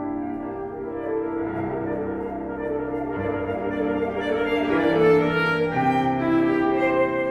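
Alto saxophone playing a slow melody of long held notes, with piano accompaniment; the playing grows louder about halfway through.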